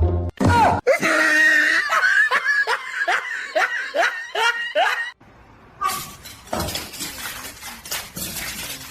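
Laughter in a run of rising, pitched bursts, about two a second for some four seconds. It then stops short and gives way to scattered knocks and clatter.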